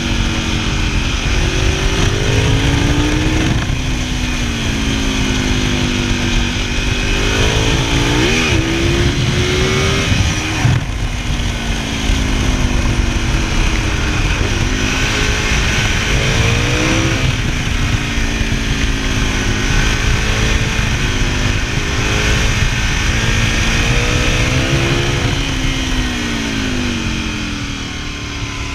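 V-twin motorcycle engine under way, its pitch rising and falling again and again as the throttle is opened and closed, with wind rushing over the camera microphone.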